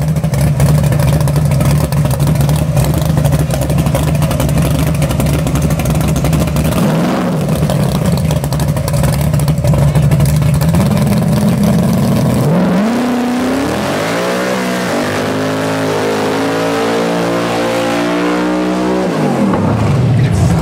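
Drag car's engine held at high revs through a funny-car-style burnout, with a steady loud note over a hiss of spinning tyres and a brief dip about seven seconds in. Then the engine pitch climbs in steps as the car launches away, and it falls off near the end.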